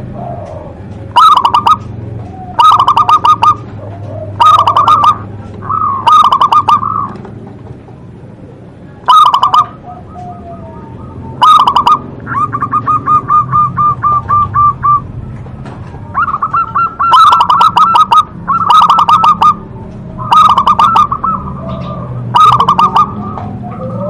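Zebra dove (perkutut) cooing over and over: loud, rapid stuttering coo phrases every second or two, with one longer, even trill in the middle.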